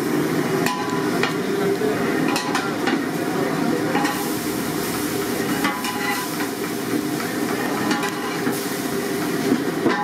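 Chicken sizzling as it fries in a pan, with repeated knocks and scrapes of a spatula stirring it.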